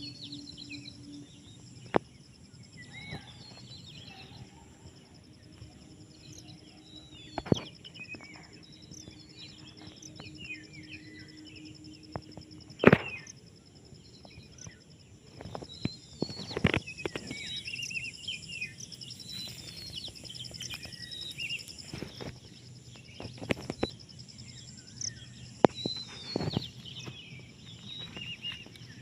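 Small birds chirping in short, quick calls, over a steady high-pitched drone. Several sharp, loud knocks or pops are scattered through it, the loudest about 13 seconds in.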